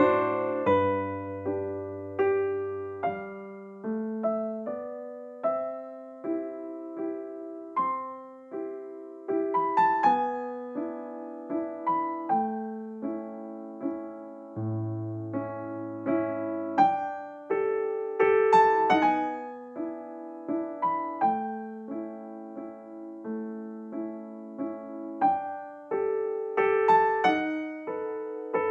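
Background piano music: a gentle melody of separate notes, each struck and then fading.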